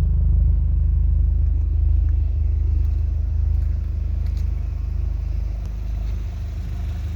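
Mk1 Audi TT 225 quattro's 1.8-litre turbocharged four-cylinder (BAM) engine, tuned to about 300 bhp, idling with a steady low rumble.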